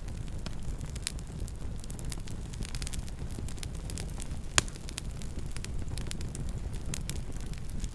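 Campfire burning with a steady low rumble and scattered sharp crackles and pops from the burning wood, one crack louder than the rest about halfway through.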